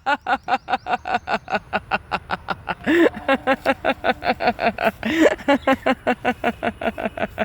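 Laughter-yoga belly laugh: one person's rapid, rhythmic "ha-ha-ha" laughter, about four or five pulses a second, pushing out a held breath from the belly. It breaks briefly twice with an upward-sweeping sound before carrying on.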